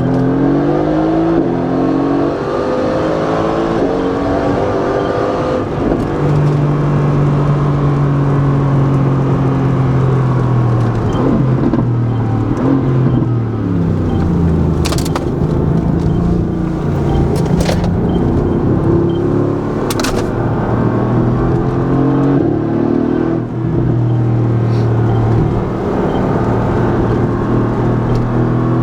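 Mercedes-AMG GT S twin-turbo V8 through an Akrapovic titanium Evolution exhaust, revving hard, its pitch climbing, holding and dropping again as it accelerates and shifts. A few sharp cracks come around the middle.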